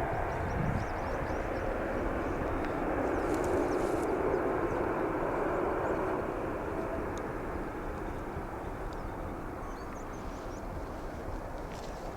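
Jet engine noise from a departing Boeing 787-9 airliner: a steady, broad roar that swells a little in the first half and then slowly fades as the aircraft moves away.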